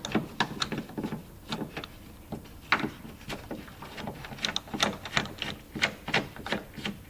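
Irregular plastic and metal clicks and light knocks as a Jeep Grand Cherokee taillight assembly is worked loose from its mounting nuts, briefly sparser about two seconds in.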